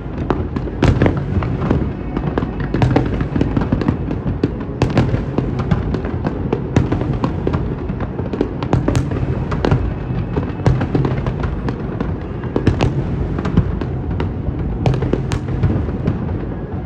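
Fireworks display going off densely: a continuous rapid crackle of bangs and pops over a deep rumble, with several louder reports standing out along the way.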